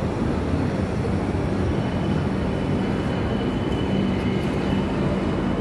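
Passenger coaches of an arriving express train rolling slowly past along the platform: a steady rumble of wheels on track. About two seconds in, a thin, high squeal comes in faintly and holds.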